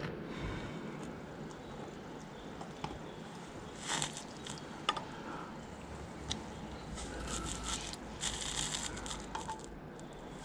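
Light handling sounds of pliers working a small split pin into a tractor's brake linkage: scattered faint metallic clicks and a few soft scraping rustles.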